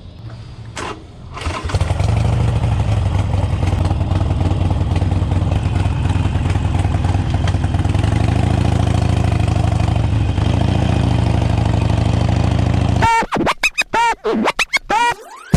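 Motorcycle engine starting about a second and a half in, then idling steadily. Near the end the engine sound breaks off into a short burst of warbling electronic tones.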